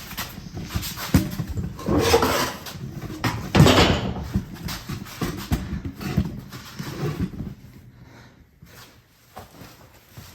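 A dog making vocal sounds in irregular bursts, loudest about two and four seconds in, then quieter after about eight seconds.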